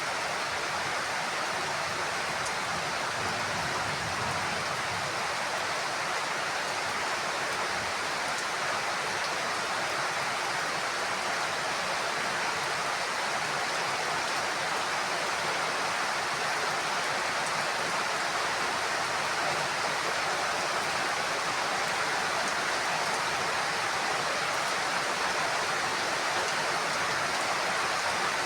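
Heavy rain falling steadily on a roof, a dense, even hiss.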